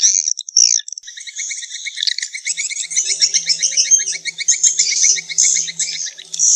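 Swiftlets twittering: rapid, high, repeated chirps that change about a second in from separate calls to a dense, continuous chatter. This is the kind of swiftlet call recording played to lure swiftlets into a nest house.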